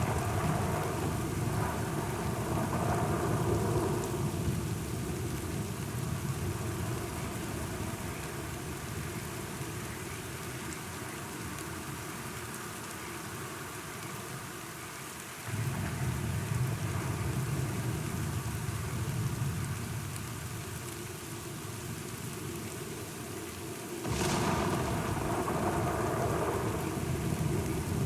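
Steady rain with thunder rumbling. Low rumbles swell near the start, start again suddenly about halfway through, and once more near the end.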